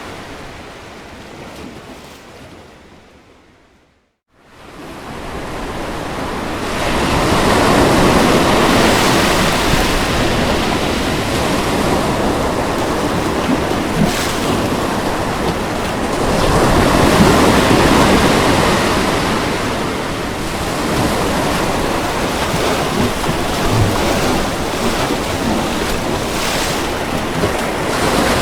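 Ocean waves breaking on a beach, a steady wash of surf that swells and eases. The sound fades out to a brief silence about four seconds in, then builds back up.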